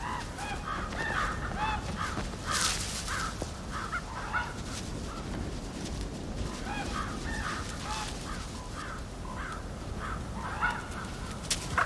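Several corvids cawing, short harsh calls repeating and overlapping one another, over a steady low background rumble.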